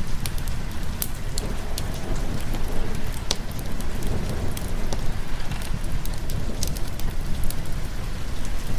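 Steady rain mixed with a crackling wood fire: an even hiss of rain with a deep low rumble underneath, and sharp fire crackles popping irregularly throughout.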